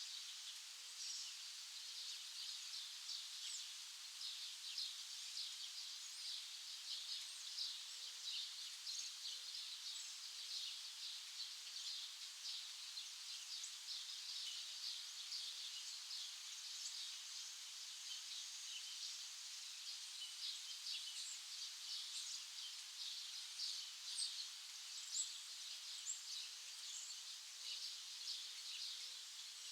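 Many small birds chirping and twittering continuously, with faint short low calls now and then.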